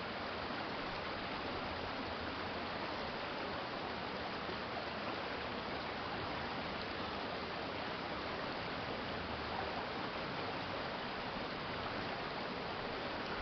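Stream water flowing over a city creek bed: a steady, even rush of running water.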